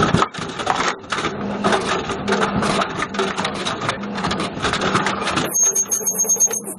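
A video recorder's plastic and metal casing tumbling in a washing machine drum: rapid, irregular clattering and banging over a steady low hum. The clatter stops suddenly near the end, leaving a faint high whine.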